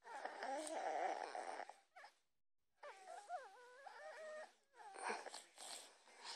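A pet dog coughing in a long fit, then a wavering whine, then a few more short coughs near the end.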